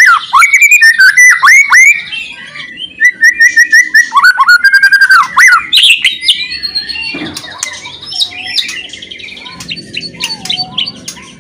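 White-rumped shama singing loudly: clear whistled phrases and fast chattering runs of repeated notes. Softer, varied calls follow after about six seconds.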